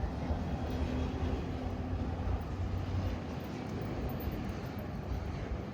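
Steady low engine rumble of a passing motor vehicle, with a hum that fades out about two and a half seconds in.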